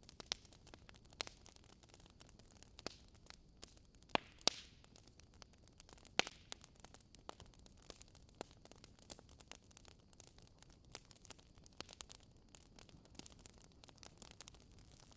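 Wood fire burning in a fireplace, crackling: irregular sharp pops and snaps over a faint steady hiss, with a few louder pops about four and six seconds in.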